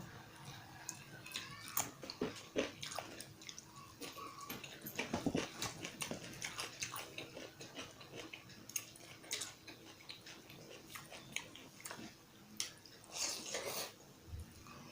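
Close-miked chewing and wet mouth sounds of a person eating, with irregular clicks and smacks throughout and a louder stretch near the end.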